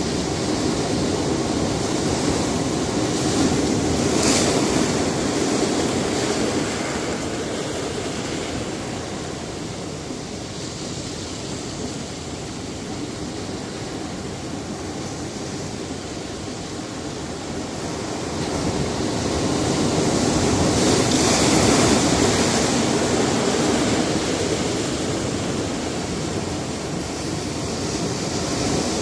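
Sea surf on a rocky shore: a steady rush of water with waves breaking in two slow swells, one about four seconds in and a louder one around twenty-two seconds.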